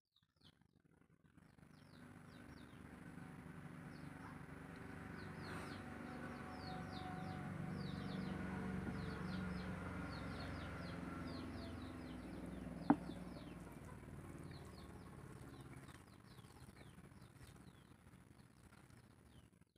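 Birds chirping in the background, a stream of quick high chirps over a low steady hum, with one sharp click about 13 seconds in.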